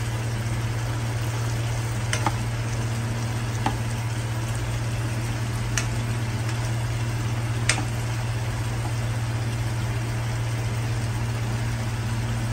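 Chicken curry in a thick masala gravy sizzling steadily in a non-stick kadai as a metal spoon stirs it, with a few sharp clicks of the spoon against the pan.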